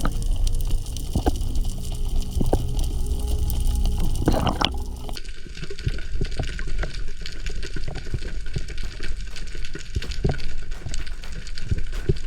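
Underwater sound through a diver's camera: a steady rush of water with many scattered sharp clicks. About five seconds in, the tone of the noise changes abruptly.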